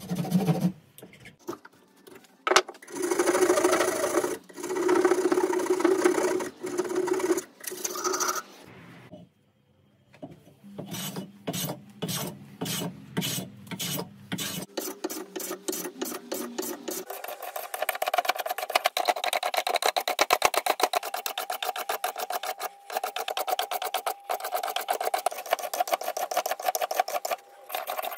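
Rasping strokes of a file or rasp during work on a hand saw, first in short runs with pauses, then from about 17 seconds in a fast, continuous run of quick strokes.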